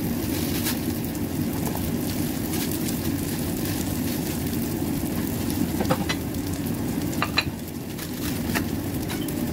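Whitebait patties frying in oil in a nonstick pan: a steady sizzle, with a few sharp pops and spits in the second half.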